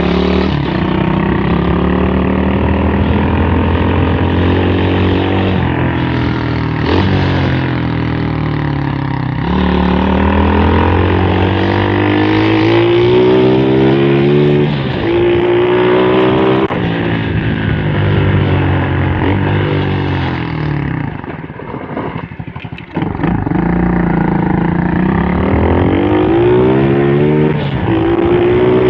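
110cc four-stroke pit bike engine revving, its pitch repeatedly climbing under throttle and falling back. The engine note briefly drops away about three-quarters of the way through, then picks up again.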